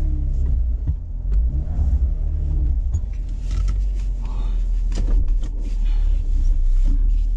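2012 Jeep Wrangler JK's 3.6-litre V6 engine running under load in mud, with a deep steady rumble and its pitch rising and falling with the throttle in the first couple of seconds. Several sharp knocks come through along the way.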